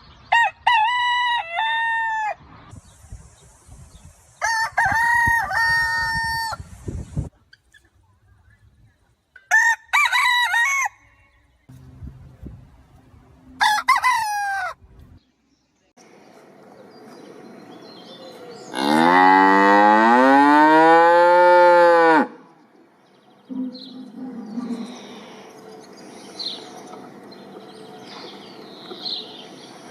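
A series of rooster crows, four separate calls, then after a short gap one long, loud cow moo that rises and falls in pitch, with faint bird chirps behind it near the end.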